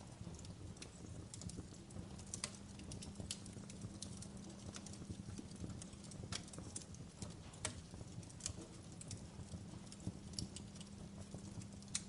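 Wood fire in a fireplace crackling: logs burning with irregular sharp pops and snaps over a low steady rumble.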